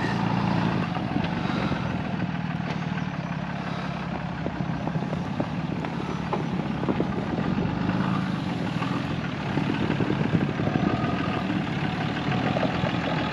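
Off-road vehicle's engine running steadily as it drives along, an even low hum with a haze of road noise over it.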